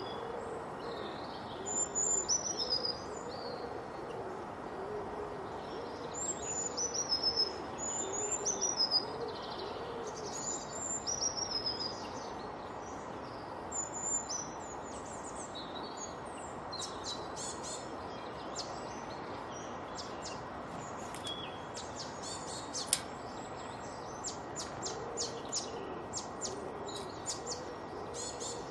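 Several birds singing: one repeats a short, high, falling whistled phrase through the first half, another gives a low call over and over, and quick high chirps crowd the second half, all over a steady hiss.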